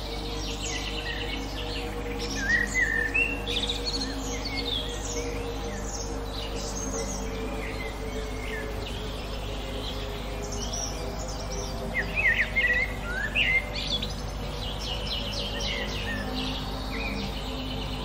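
Several songbirds chirping and singing in quick overlapping phrases, with louder flurries of calls about 2.5 s and 12 s in. A steady low hum runs underneath.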